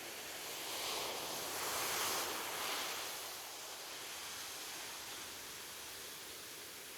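Ocean surf: a wave swells in about a second in, washes up loudest around two seconds, then fades back into a steady hiss of sea noise.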